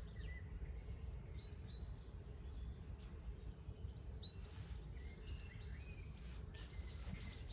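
Garden birds chirping and calling now and then, short sliding whistles, over a steady low outdoor rumble.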